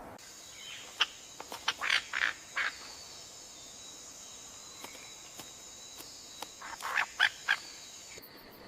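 Bird calls: a cluster of short, sharp calls about a second in and another around seven seconds in, over a steady high-pitched ringing background that stops just before the end.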